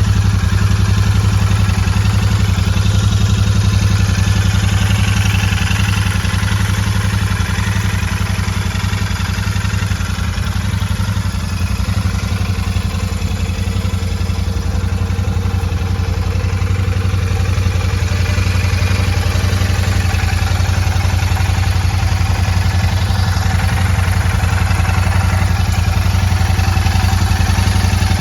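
Royal Enfield Super Meteor 650's 648 cc parallel-twin engine idling steadily, with no revving.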